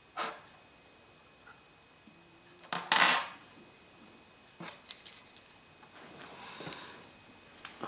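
Small metal parts and a screwdriver clicking and clattering on a hard work surface during phone repair: a sharp click at the start, a louder metallic clatter about three seconds in, then a few lighter clicks and some scraping.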